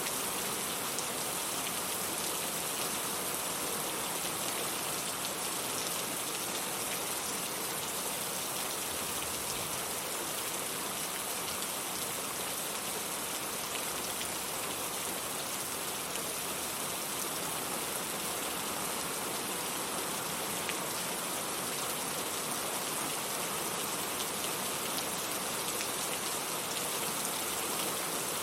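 Steady, constant rainfall, an even hiss of many drops falling on a surface with fine patter throughout.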